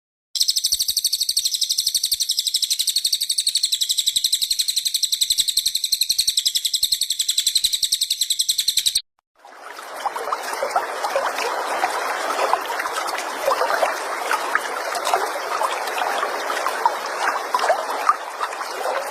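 Recorded songbird calls used as training song. For about nine seconds there is one very high, rapid, evenly pulsed trill. After a brief cut it changes to a busy chatter of many short, lower notes overlapping.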